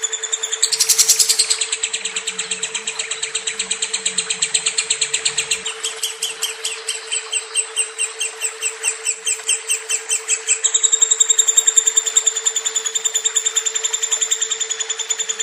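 Lovebird singing a long, unbroken trill of fast, evenly repeated high chirps, the long-duration song bird keepers prize; the note pattern shifts about six seconds in and again near eleven seconds. A steady low hum runs underneath.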